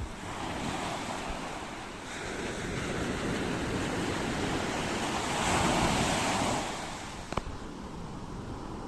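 Ocean waves breaking and washing on a shore: the surf swells to its loudest about two-thirds of the way through, then dies back. A single short click sounds just after it fades.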